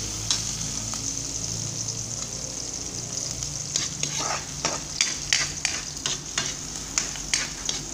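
Sliced onions, garlic and ginger sizzling in hot oil in a wok, a steady high hiss. From about halfway through, a spatula scrapes and taps against the pan about three times a second as the onions are stirred.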